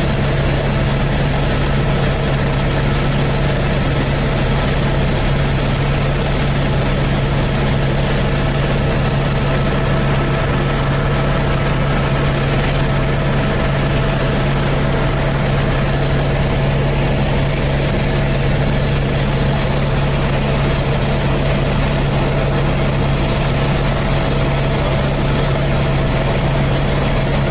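Helicopter in flight, heard from inside the cabin: the rotor and engine give a steady low drone with a fainter higher whine, unchanging throughout.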